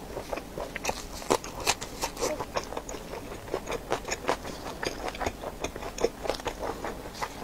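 Close-miked chewing of a mouthful of food: irregular wet mouth clicks and smacks, a few each second.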